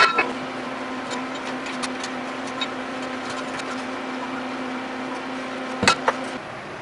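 A shop power tool giving a steady hum with scattered light clicks, a sharp knock at the start and another just before the hum cuts off near the end.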